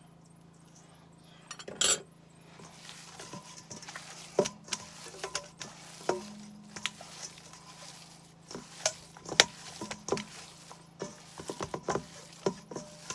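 Hands squishing and kneading raw ground beef with seasoning in a bowl: irregular wet squelches and sharp little taps against the bowl, with one louder clatter about two seconds in. A steady low hum runs underneath.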